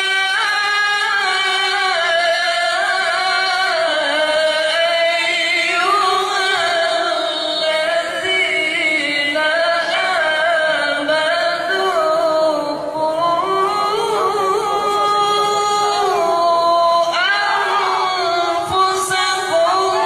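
A qari reciting the Qur'an in melodic tilawah style: a single voice holding long, high notes and ornamenting them with slides and turns, with only brief breaks for breath.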